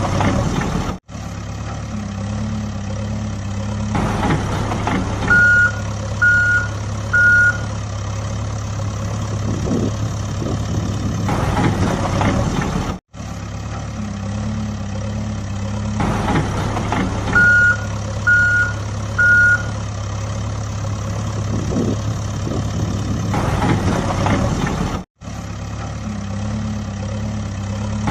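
Truck sound effect on a loop: an engine running steadily, with a set of three reversing beeps about a second apart, repeating about every twelve seconds. Brief cut-outs where the loop restarts.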